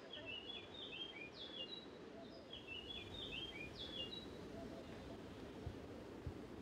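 A songbird singing two short phrases of quick, high chirps that step down in pitch, the second starting about half a second after the first ends, over a faint steady background hum.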